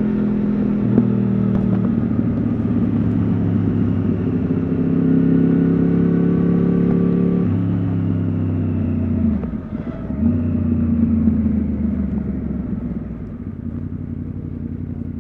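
Yamaha R1 RN22's crossplane inline-four with an Akrapovič exhaust, heard from the rider's seat while riding. The engine note drops in pitch in steps and breaks off briefly about nine and a half seconds in. It then falls away and gets quieter over the last few seconds as the bike slows.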